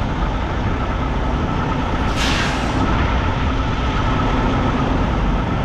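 Semi-truck diesel engine running steadily at low speed while the rig backs up, with a short hiss of air about two seconds in.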